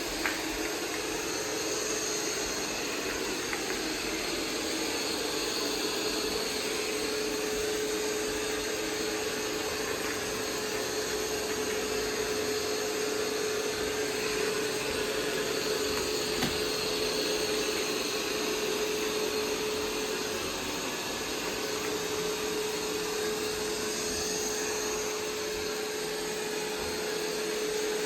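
iRobot Roomba 505 robot vacuum running: the steady whir of its suction fan and brushes, with a constant mid-pitched hum.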